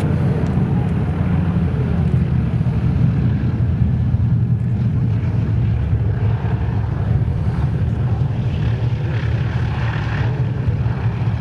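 Boeing B-29 Superfortress's four Wright R-3350 radial engines, a loud steady propeller drone as the bomber comes back in to land.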